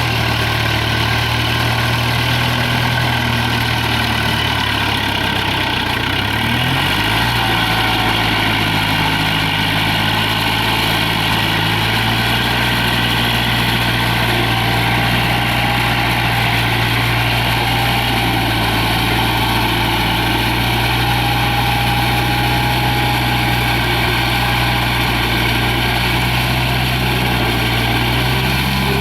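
Kubota tractor's diesel engine running steadily, its pitch shifting once about six to seven seconds in.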